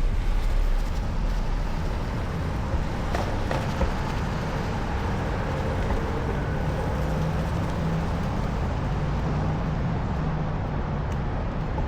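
Steady road traffic noise from passing cars, with a low engine hum in the second half and a single click about three seconds in.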